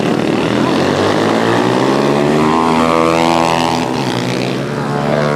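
Small pit bike motorcycle engines revving hard as they race past, the pitch climbing and then dropping sharply about four seconds in, with another engine rising near the end.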